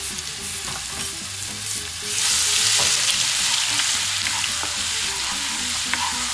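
Crushed ginger, garlic and green chilli sizzling in hot coconut oil, stirred with a wooden spatula. The sizzle swells sharply about two seconds in as the paste is stirred through the oil, with a few light taps of the spatula on the pan.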